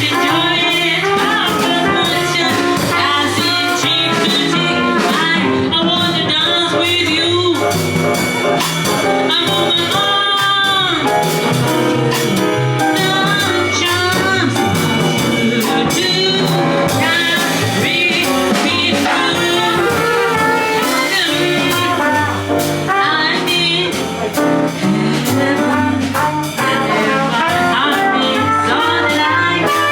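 Live jazz band playing. A horn carries the melody over the rhythm section with cymbals, holding one long note about ten seconds in before bending down off it.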